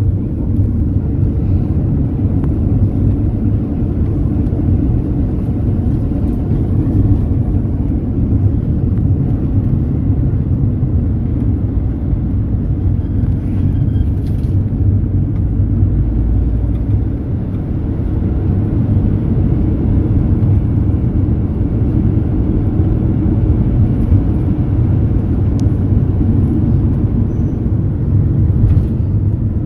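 Mercedes-Benz Sprinter minibus on the move, a steady low rumble of engine and road noise heard from on board.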